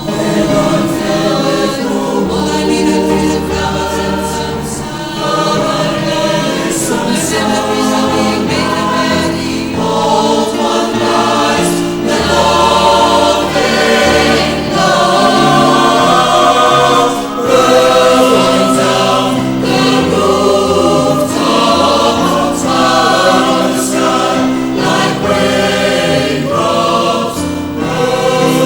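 Choral music: many voices singing together over a low, slowly changing bass line.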